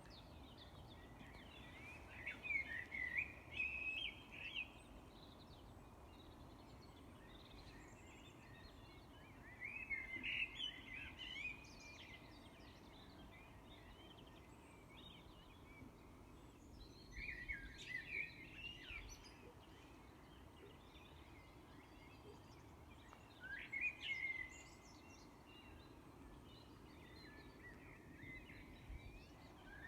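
A bird singing short, rapid warbling phrases, about four of them, roughly six or seven seconds apart, over a faint steady background hum.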